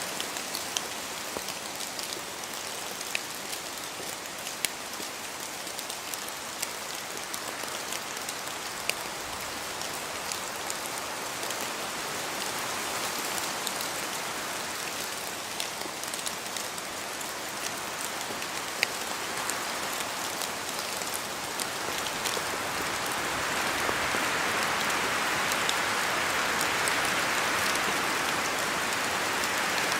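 Steady rain falling through forest trees, with single drops from the branches landing close by as scattered sharp taps. A rushing sound swells louder about two-thirds of the way in: wind moving through the trees.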